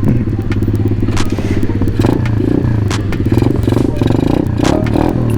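Pit bike's small single-cylinder engine running steadily while riding, with frequent short knocks and rattles close to the microphone.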